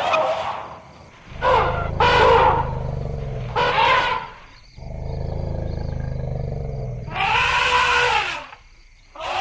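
Elephants calling: several short trumpeting calls that bend up and down in pitch, with a low, steady rumble between them, and the loudest call coming about two seconds before the end.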